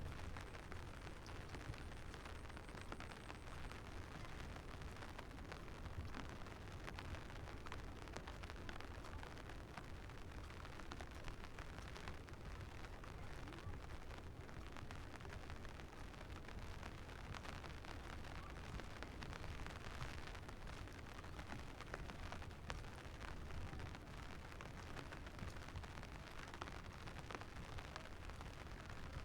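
Steady rain hiss with a low, constant rumble of wind on the microphone and faint scattered patter of drops.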